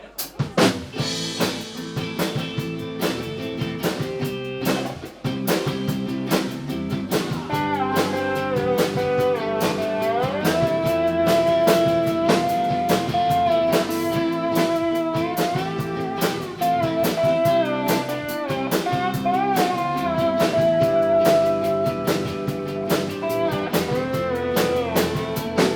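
Live band playing the instrumental intro of a blues-rock song: guitars and drum kit, with a lead guitar line that bends and slides between long held notes from about a quarter of the way in.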